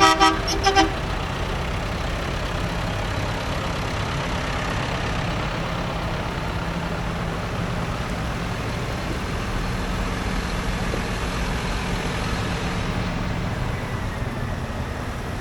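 A vehicle horn sounds several short toots in the first second, over the steady low rumble of tractor engines running.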